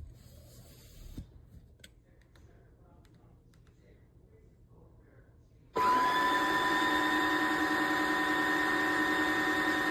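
A few faint clicks, then about six seconds in a Tineco iFLOOR 3 cordless wet-dry floor cleaner switches on and runs with a steady motor whine.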